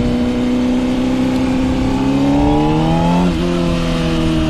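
2025 Honda CBR600RR's inline-four engine under way: revs hold steady, then climb for about a second, drop sharply a little past three seconds in with a gear change, and then slowly fall. Low wind rumble runs underneath.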